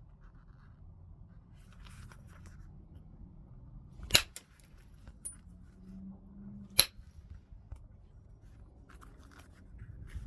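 Two sharp percussion strikes on heat-treated Burlington chert, about two and a half seconds apart, as flakes are knocked off a first-stage Dalton preform, with faint scraping of stone between them.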